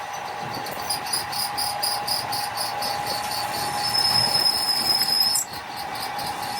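Machinery running with a steady hum and rapid regular ticking, about six ticks a second; a high steady whine comes in past the middle and cuts off suddenly.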